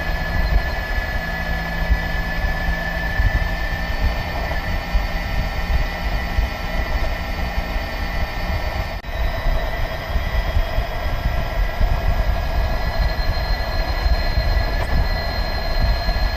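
Electric motorcycle riding at steady speed: heavy wind rumble on the microphone with a steady high motor whine. There is a brief break about nine seconds in.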